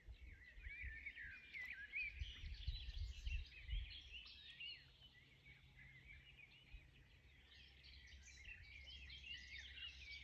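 Several small birds singing at once, a busy chorus of overlapping chirps and twitters, faint, over a low uneven rumble that is strongest in the first few seconds.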